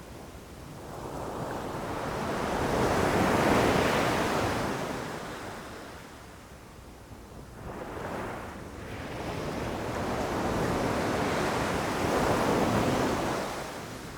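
Ocean waves breaking and rushing up the shore: two long swells of surf noise, each building and then fading, the first peaking about three and a half seconds in and the second, after a brief smaller surge, lasting from about ten to thirteen seconds.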